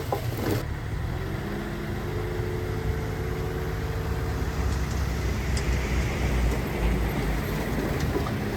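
Diesel engine of heavy earthmoving machinery running steadily, low-pitched, with faint steady tones over it during the first half.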